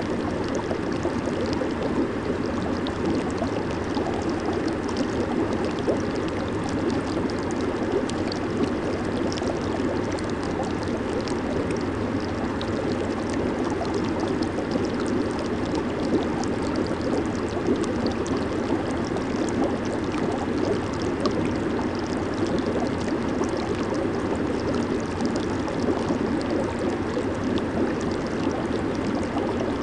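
Jacuzzi water bubbling and churning steadily, with a constant fizz of small bubbles popping at the surface.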